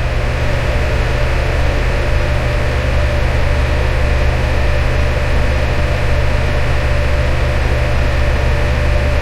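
Electric fan running steadily, a constant rushing hiss over a low hum with a faint steady tone in the middle.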